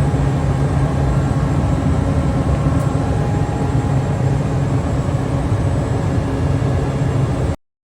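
Chiller plant machinery running with a steady hum and several steady tones. It cuts off abruptly near the end.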